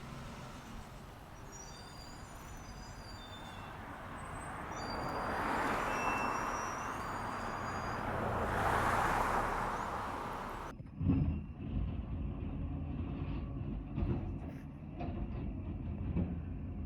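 Garbage truck running, growing louder over several seconds. It then cuts to another recording of a low engine rumble broken by a few heavy knocks.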